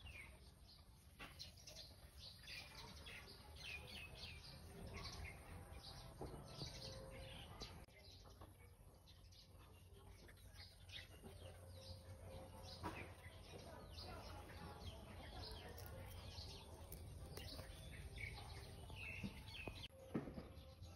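Faint outdoor birdsong: many short chirps from small birds, scattered throughout, over a low steady background rumble.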